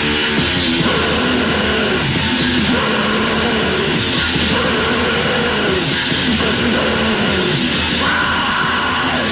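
Distorted electric guitars, bass and drums playing fast, loud heavy metal / punk from a 1980s demo recording.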